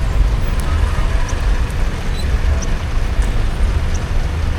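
Steady low rumble of a car driving: engine and road noise, with a few faint light ticks scattered through.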